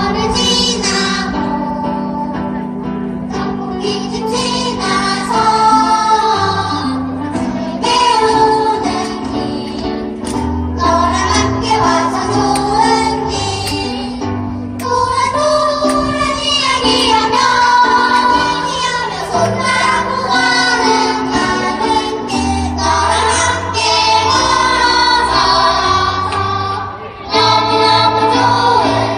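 Children's choir singing a song in unison over an instrumental accompaniment with a steady bass line.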